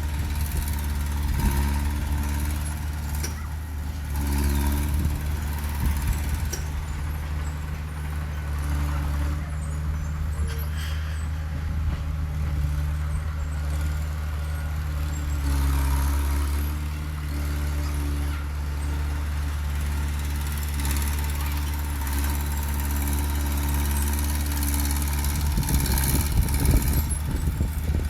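Heavy diesel engine of an earthmoving machine running steadily at low revs, its pitch shifting a little now and then. Near the end the sound turns rougher and more uneven.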